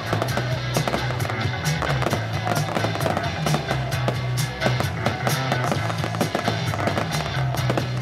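Music playing, with rapid irregular crackling and pops of fireworks over it.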